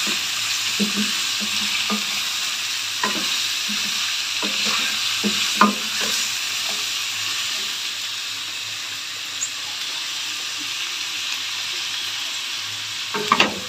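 Mutton, sliced onions and whole spices sizzling steadily in hot oil in a stainless steel pot. A wooden spatula stirs and scrapes, knocking against the pot several times in the first half and again near the end.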